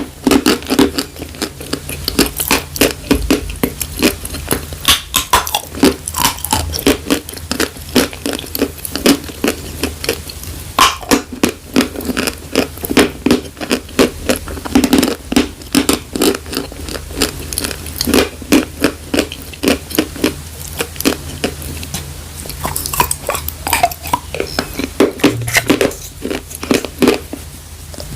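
Close-miked biting and chewing of dry chalk: a continuous run of loud, dry crunches, several a second.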